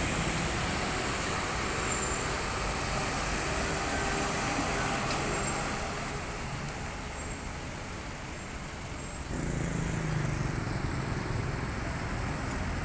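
Road traffic noise from passing vehicles, a steady rush of engines and tyres. About nine seconds in it shifts abruptly to a deeper, heavier engine sound.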